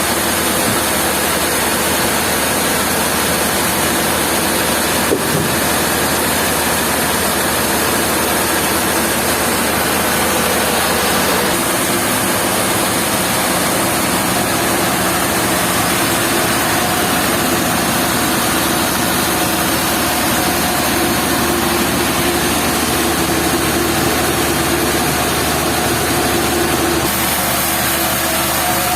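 Sawmill machinery engine running steadily, a loud continuous drone with a dense hiss over it; one sharp knock about five seconds in.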